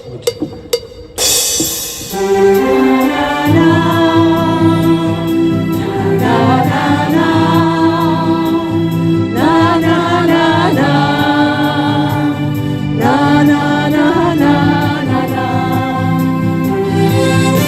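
A harmonica ensemble starts a slow tune about a second in, playing held chords under the melody, with upward pitch slides at the starts of some phrases.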